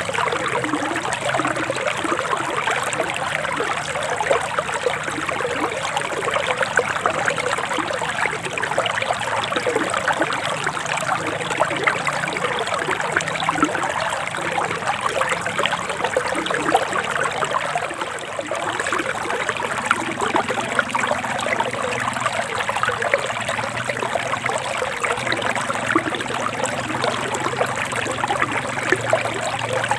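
Forest stream flowing steadily, a continuous babbling and trickling of water.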